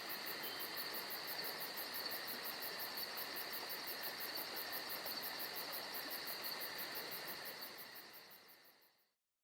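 Insects chirping in an even, rapid high-pitched pulse over a steadier, lower buzz, fading out near the end.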